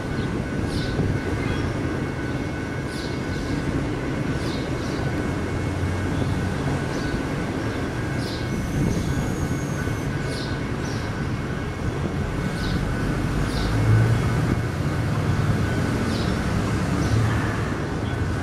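Double-stack intermodal container train rolling past: a steady rumble of freight-car wheels on the rails, with a faint steady high ringing over it.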